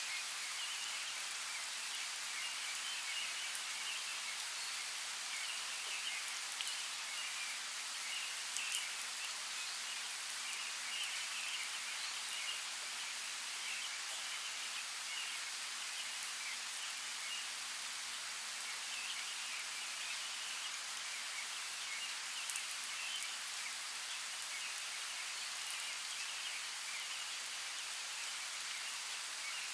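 Steady rain, an even hiss with scattered sharper ticks of single drops, and a faint flickering chirping through it.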